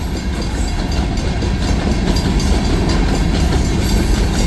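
Freight train passing close at high speed: a loud, steady rolling rumble of wheels on the rails, growing slightly louder.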